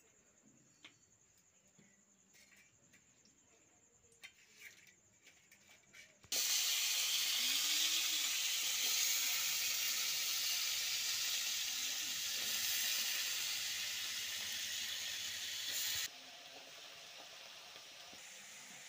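Chopped vegetables hitting hot oil in a karahi and sizzling hard, starting suddenly about six seconds in after a few faint taps and clicks. Near the end the sizzle drops abruptly to a quieter, steady frying.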